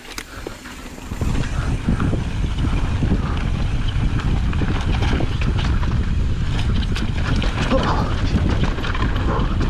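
Wind buffeting the microphone and mountain bike tyres rolling over dry, loose dirt, with many small clicks and rattles from the bike. It starts about a second in as the rider sets off and stays loud and steady.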